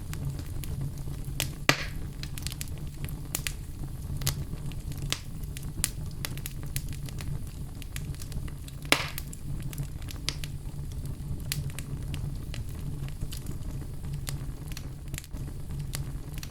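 Log fire crackling: many small snaps over a steady low rumble, with two louder pops, one about two seconds in and one about nine seconds in.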